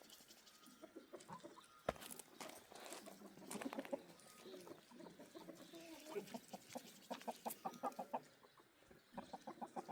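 Domestic chickens clucking, faint, with runs of quick repeated clucks toward the end. One sharp click about two seconds in.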